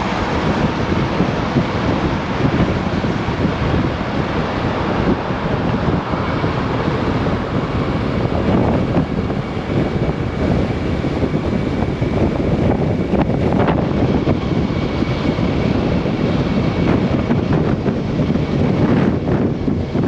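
Heavy wind rushing and buffeting over the microphone of a Kymco AK 550 maxi-scooter ridden at speed in strong gusting crosswinds, with the scooter's running underneath.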